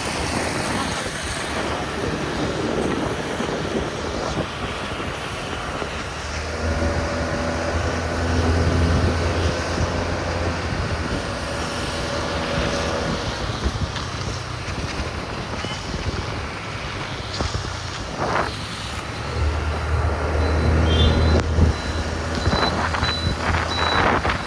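Street traffic and engine noise heard from a moving motorbike, with wind buffeting the microphone. Twice a low, steady engine hum rises over the traffic for several seconds, about a quarter of the way in and again near the end.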